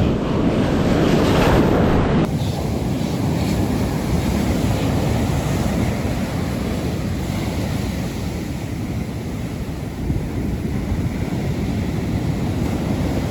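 Ocean surf washing and breaking, with wind buffeting the microphone. The noise is loudest for the first two seconds and changes abruptly about two seconds in, then runs on steadily.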